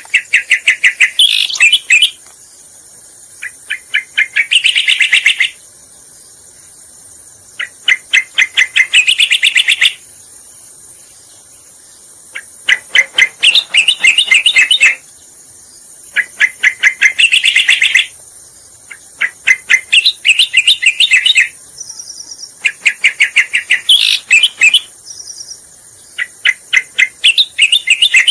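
Cica koreng (striated grassbird) lure-call recording: loud phrases of rapid chattering notes, each lasting one to two seconds, repeated after short pauses, over a steady high hiss.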